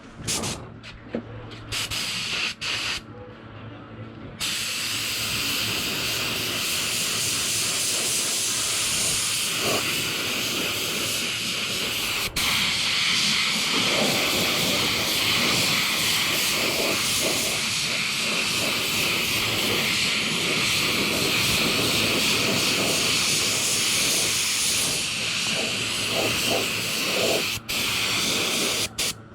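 Paint being sprayed onto motorcycle parts: a few short hissing bursts, then a long steady spray hiss that breaks off briefly a couple of times.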